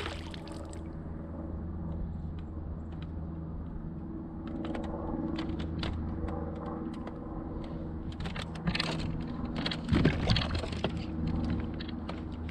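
A small motor running steadily with a low hum, with scattered knocks and clicks over it, a cluster of them about nine to ten seconds in.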